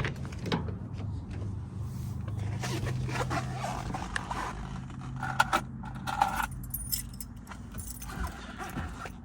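1987 Toyota pickup's engine idling steadily just after a cold start, a low even hum. Light jingling and clicks of keys on the ring sound over it.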